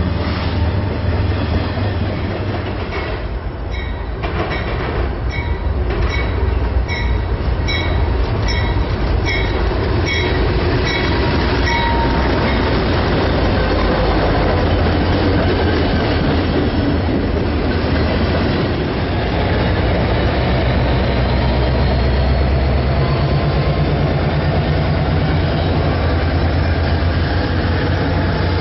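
A BNSF freight train passing at speed: the steady rumble and clatter of freight cars, then diesel locomotives going by. A high ding repeats a little more than once a second for about ten seconds early on. Near the end, a Metra diesel passenger locomotive's engine runs with a steady low throb.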